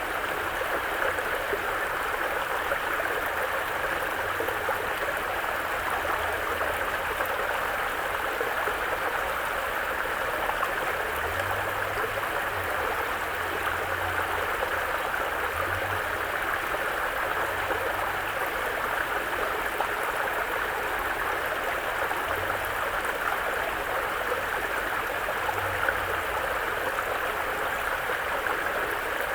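A mountain brook flowing, with a steady, unbroken rush and babble of water.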